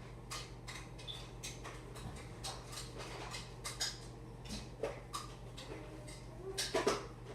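Fluffy slime mixed with shaving cream being squished and kneaded by hand, giving irregular sharp clicks and pops, about two or three a second, louder near the end.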